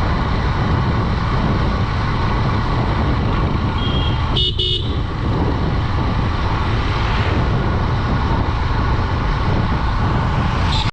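Steady wind and road rush with the engine of a Honda Dream 110 motorcycle running at cruising speed. A vehicle horn gives two short beeps about four and a half seconds in.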